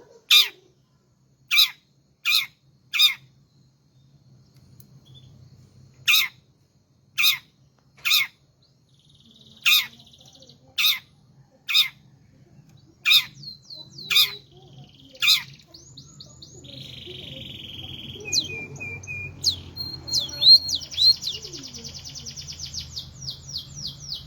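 A caged songbird giving about a dozen sharp, loud calls, each a quick downward sweep, spaced a second or so apart. About two-thirds of the way in, the calls give way to fast, continuous twittering song.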